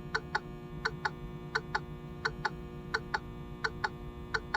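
A truck's hazard-light flasher clicking in the cab: a pair of sharp clicks about every two-thirds of a second, over a steady low hum.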